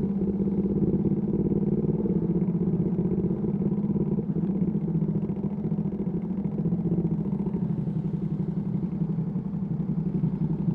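Ducati Panigale V2S V-twin with a Termignoni exhaust running at low, steady revs, its exhaust note holding an even pitch with a slight dip in loudness around the middle.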